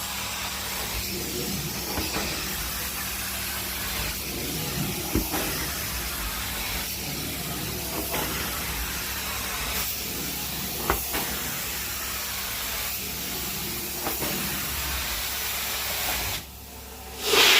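Carpet-cleaning extraction wand running on carpet with a steady spraying and sucking hiss. It changes in repeated passes every few seconds, then cuts off near the end followed by a brief loud burst.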